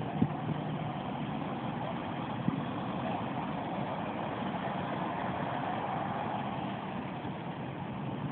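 Steady, even hum of jet airliner engines at low thrust, with no change in pitch. A single small knock comes about two and a half seconds in.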